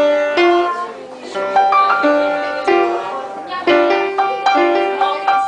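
Piano being played: a run of struck notes and chords, each starting sharply and fading away, in an uneven melodic rhythm.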